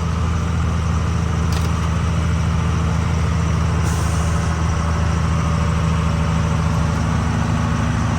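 Truck diesel engine running steadily under way, with two short hisses about two and a half seconds apart.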